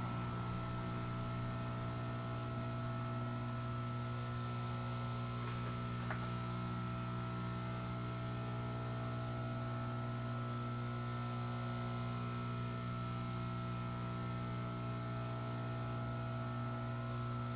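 Steady electric hum, a constant low drone with a few fainter steady tones above it, and one faint click about six seconds in.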